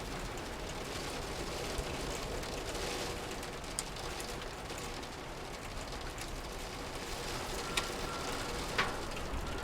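Steady rain falling, with a low rumble underneath and a few sharp clicks scattered through it.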